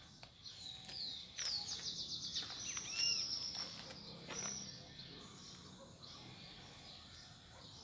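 Several birds calling and chirping, with a fast trill of repeated high notes about a second and a half in and the loudest calls around three seconds in.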